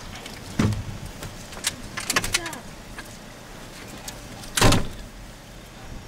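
A few knocks and thumps with clicks between them; the loudest thump comes near the end.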